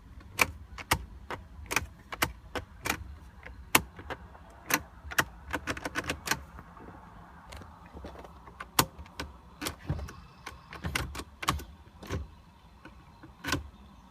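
A rapid, irregular run of sharp clicks and light knocks, several a second, thinning out in the second half, over a low steady hum.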